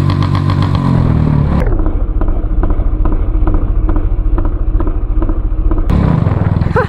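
Royal Enfield Classic 350's single-cylinder engine heard through its exhaust: the revs fall over the first second and a half, then it runs low with a steady thud and many sharp pops from the exhaust.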